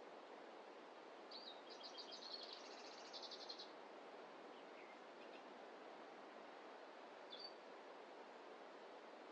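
A small songbird sings one phrase of rapid repeated high notes, about two seconds long, starting about a second in, then gives a few short single chirps. All of it is faint, over a steady soft hiss of forest ambience.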